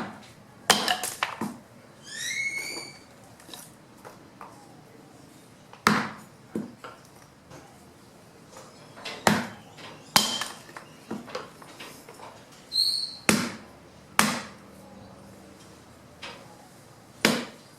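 Fallen branches being chopped into wood chips by hand: sharp, unevenly spaced strikes of a blade on wood, about a dozen in all with pauses between. A bird calls twice, a quick run of high notes about two seconds in and again near the end.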